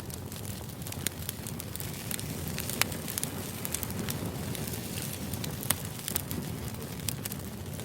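Crackling fire ambience used as background white noise: a steady low rumble with irregular sharp pops and snaps.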